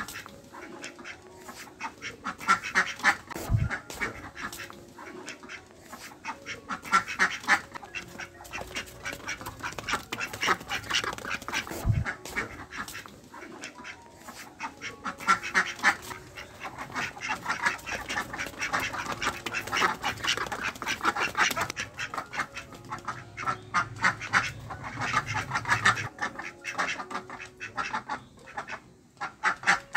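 Ducks quacking in bouts of rapid quacks that come again every few seconds.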